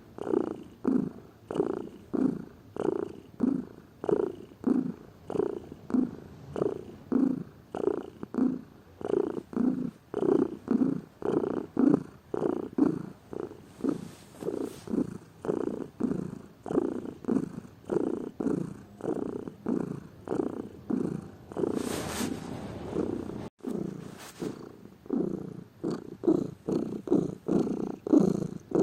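Domestic cat purring close up, in rhythmic pulses about two a second as it breathes in and out. A brief hiss-like noise cuts across the purr about three-quarters of the way through.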